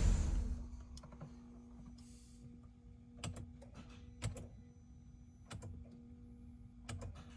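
Mercedes-Benz M272 3.0 V6 engine shutting off, its running sound dying away within about a second. It is followed by a faint steady hum and scattered light clicks and taps.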